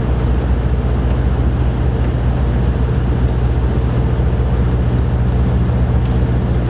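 Steady low mechanical drone with an even hum, unchanging throughout.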